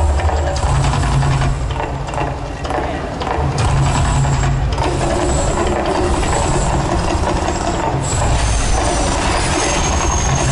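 Mirage volcano show eruption: loud, continuous rumbling and crackling, with low booms that come and go.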